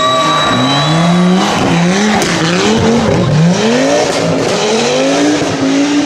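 Rally car engine driven flat out, its pitch climbing, dropping back and climbing again about once a second, over a steady rush of noise.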